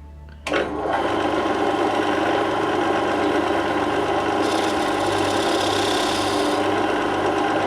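A lathe starts suddenly about half a second in and runs steadily with a machine hum, turning the workpiece. About four and a half seconds in, a high scraping hiss joins for about two seconds as a caliper leg scores a circle on the spinning work.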